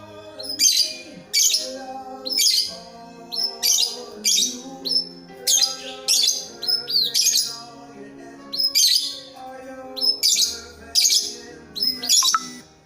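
A bird giving loud, sharp chirps over and over, roughly one or two a second, some with a quick falling sweep, over background music.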